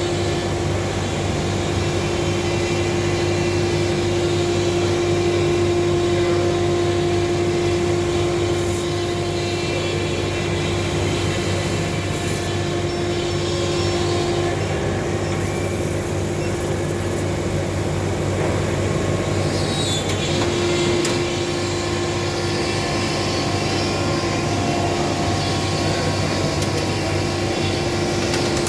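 CNC laser cutting machine running: a steady mechanical hum with a held whine that fades out for several seconds midway, and a few faint clicks.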